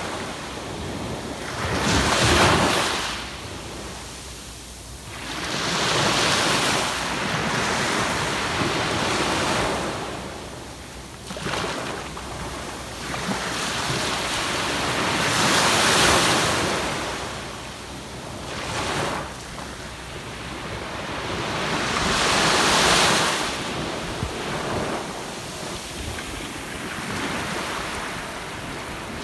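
Waves breaking and washing up on a sandy beach, each surge swelling and fading over a few seconds, with the loudest about two seconds in and twice more later on.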